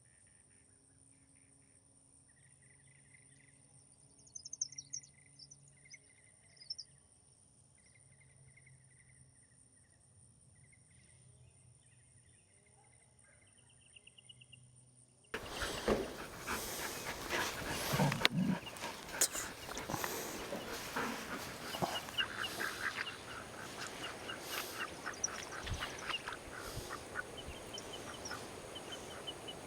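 Faint insects chirping with a few short bird calls, then an abrupt cut about halfway to much louder farmyard sound: ducks quacking over rustling and knocks.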